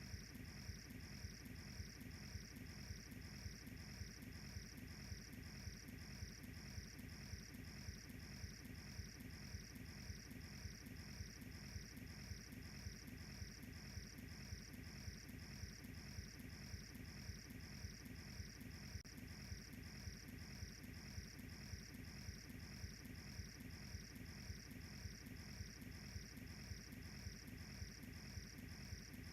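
Crickets chirping steadily in a high, even rhythm of about two chirps a second, over a faint low hiss.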